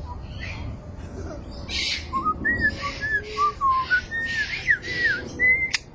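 A bird whistling a run of short, clear notes that slide up and down, over repeated bursts of hiss, with a sharp click near the end.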